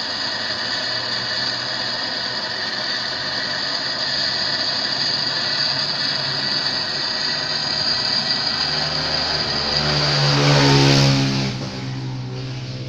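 A steady mechanical whir, with a motor vehicle passing close by about ten seconds in: it swells to its loudest, then its pitch falls as it moves away.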